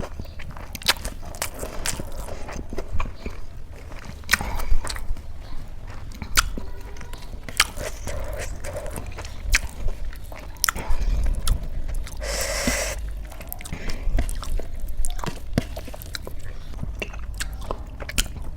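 Close-miked eating of chole masala with rice: chewing and biting with many wet mouth clicks and smacks. A louder, noisier crunch-like burst comes about twelve seconds in, over a faint low hum.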